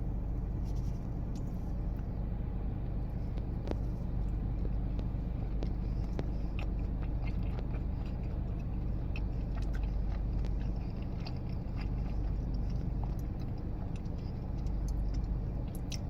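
Close chewing and biting of a soft cookie, many small wet mouth clicks, over the steady low rumble of a car idling.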